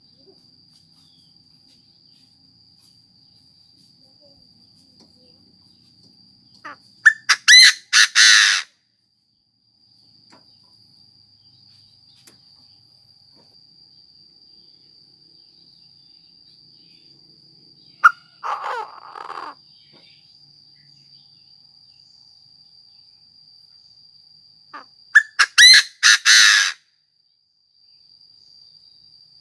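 Chinese francolin calling loudly: two harsh multi-note call phrases, about eighteen seconds apart, with a shorter call between them, over a steady high-pitched insect drone. It is a decoy francolin calling to draw in a flock.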